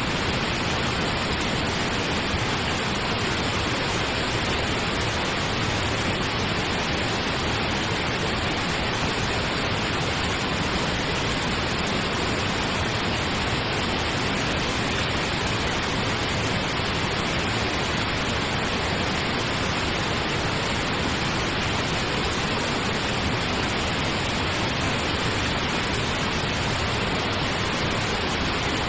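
Steady synthetic pink noise, an even hiss with no change or events, played as a sleep aid.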